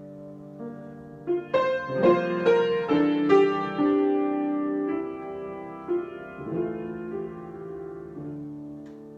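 Solo piano improvisation: a held chord, then a run of struck notes from about a second in building to the loudest passage, settling into sustained chords that fade near the end.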